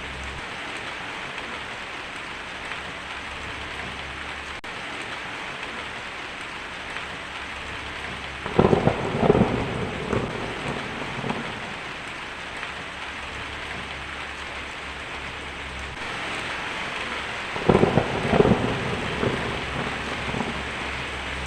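Steady rain falling, with two rolls of thunder about nine seconds apart, each a cluster of sharp cracks trailing into rumble. All sound cuts off suddenly at the very end.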